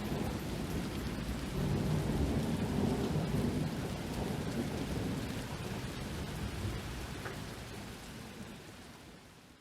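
Steady rain with a low rolling rumble of thunder, loudest a couple of seconds in, then fading away toward the end.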